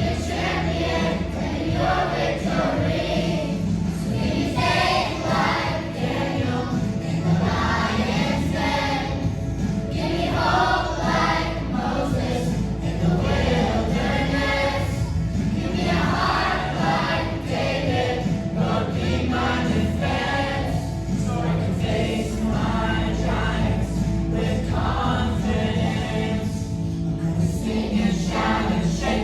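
A choir singing a Christian song with instrumental accompaniment.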